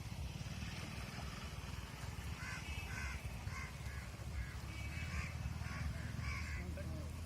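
Crows cawing: a run of short repeated calls that starts a couple of seconds in, over a steady low rumble.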